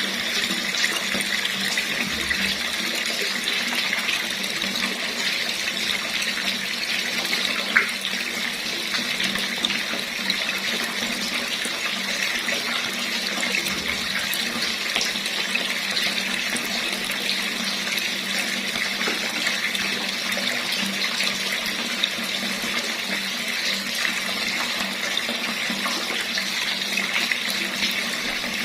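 Water running steadily from a tap, splashing down in an even hiss.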